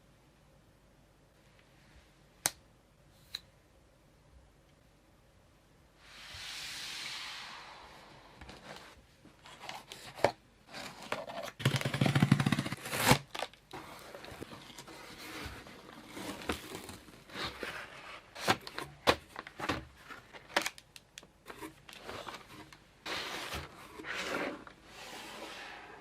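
A couple of sharp clicks, then a cardboard shipping package being cut and torn open: tape tearing, cardboard and packing material scraping and crinkling, with many small knocks and a louder patch of box handling about halfway.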